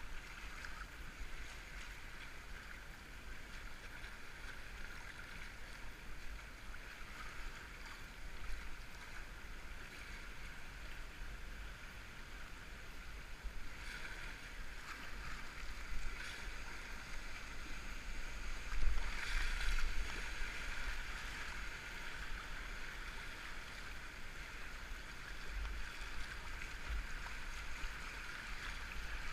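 River water rushing and splashing around a kayak, heard muffled through a waterproof camera housing, with louder surges of splashing a little past the middle.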